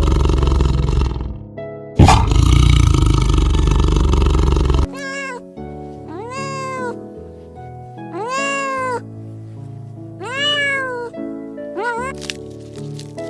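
Two loud, rough roars, the second starting suddenly about two seconds in. Then a cat meows about five times, each call rising and falling, over background music.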